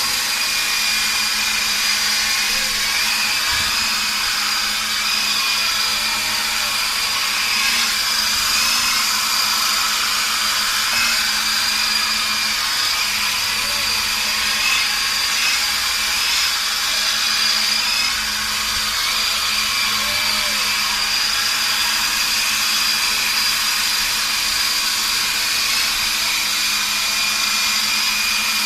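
Small radio-controlled helicopter's motor and rotor running steadily: a high whine whose pitch wavers slightly now and then.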